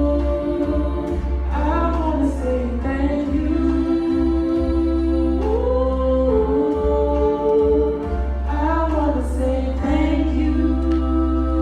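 A worship song sung as a duet: voices hold long, gliding notes over sustained backing chords.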